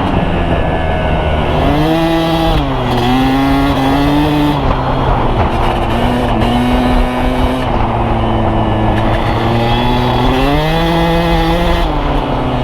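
Dirt bike engine running while riding: it revs up and eases off about two seconds in, then holds a steadier pitch, and revs up again near the end.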